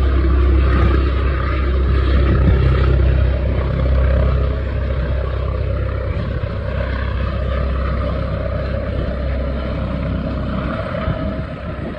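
Air ambulance helicopter running loudly and steadily, with heavy low rotor noise, easing a little after about four seconds.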